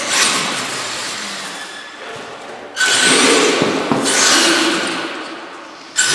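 Electric RC trucks driving, their motors whirring in several bursts that each start suddenly and fade over a second or two.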